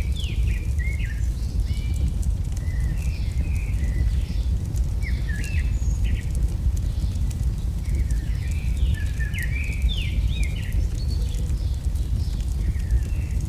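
AI-generated campfire-in-the-woods ambience: a steady low rumble with scattered faint crackles, under small birds chirping in short, quick phrases that come and go throughout.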